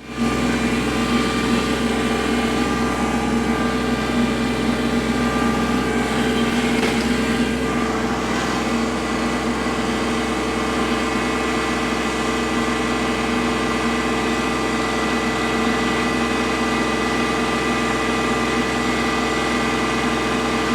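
Kubota L3301 compact tractor's three-cylinder diesel engine running steadily.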